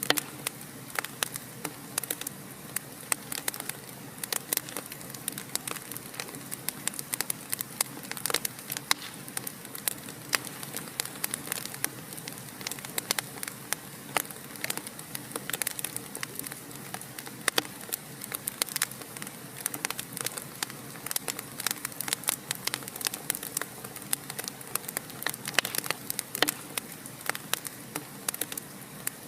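Wood fire crackling in a fireplace: a dense, irregular run of sharp pops and snaps over a steady soft hiss.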